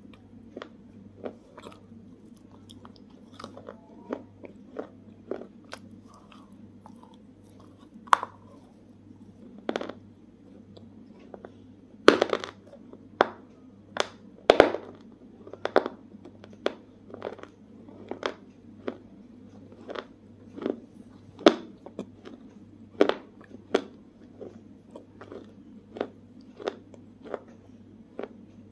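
A person chewing crunchy food close to the microphone: irregular sharp crunches, at times quick and clustered, loudest about halfway through.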